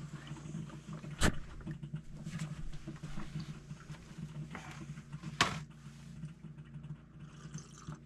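Clatter of coffee-making gear being handled in a van: two sharp knocks, about a second in and again about five seconds in, with lighter rustling and handling noises between them, over a steady low hum.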